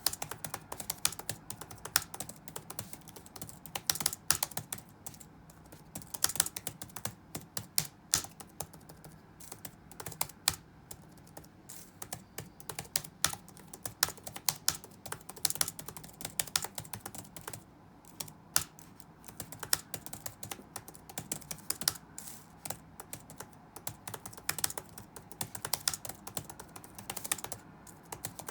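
Computer keyboard being typed on at a steady pace: irregular runs of key clicks with short pauses between them, over a faint low hum.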